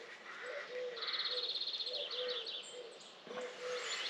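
Outdoor birdsong: a small songbird sings a fast, high trill from about a second in, then a few separate chips. Under it runs a low, short note repeated about twice a second.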